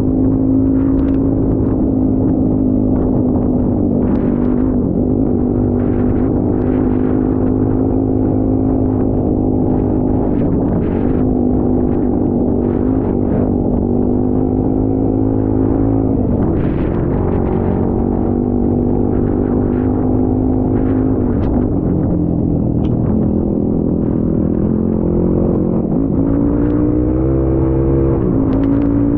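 Vehicle engine running under way at a fairly steady speed, its pitch dipping and coming back up several times as the speed changes, with short rattles and knocks scattered through.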